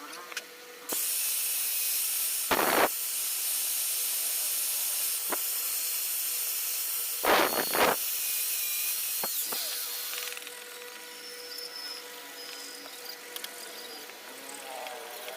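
Steady hiss of compressed air in a woodcarving workshop, starting abruptly about a second in and cutting off after about nine seconds, with two brief louder bursts along the way.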